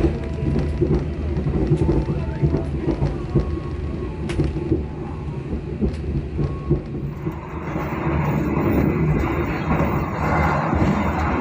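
Passenger train running on the rails: a steady rumble with scattered sharp clicks and knocks from the wheels and track. About eight seconds in, a louder rushing noise joins it.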